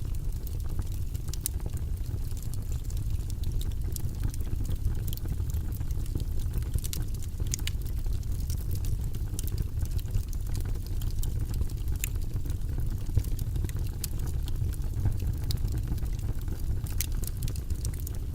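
Wood fire burning in a fireplace: frequent small, sharp crackles and pops over a steady low rumble of flames.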